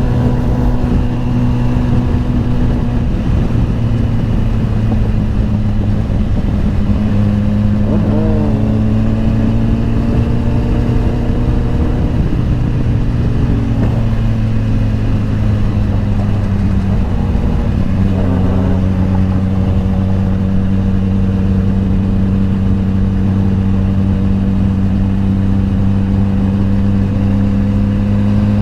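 Motorcycle engine running at steady cruising revs with wind noise over it; the engine note dips slightly a few times and then holds steady.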